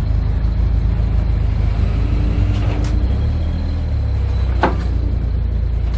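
Heavy truck engine running with a steady low rumble that shifts slightly about halfway through, with one short sharp squeak or hiss near the end.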